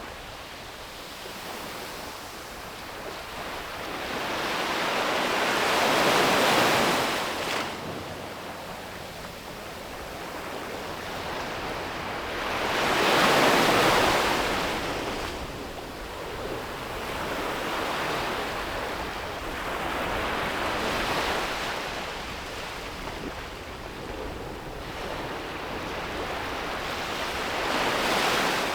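Ocean surf breaking on a beach, swelling and fading in slow surges. The two loudest breakers come about six and thirteen seconds in, with smaller ones after.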